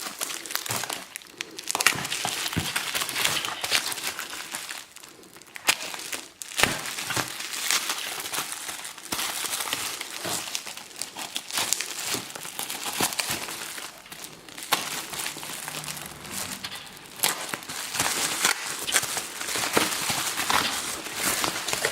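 Packing material crinkling and rustling as a parcel is unwrapped, with many small crackles and sharp clicks throughout.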